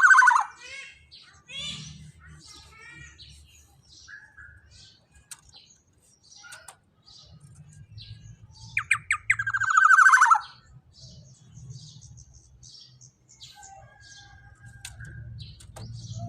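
Black-naped oriole (kepodang) singing loudly. Two bursts of rapid, falling, harsh notes come at the start and again about nine seconds in, with softer scattered chirps and short whistles between them.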